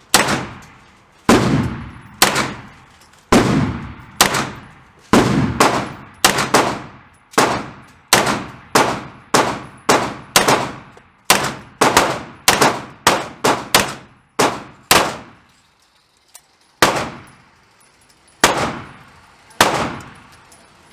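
A string of about two dozen single gunshots from one firearm fired at a target. The shots come about once a second at first, quicker in the middle, then pause before three more spaced shots near the end.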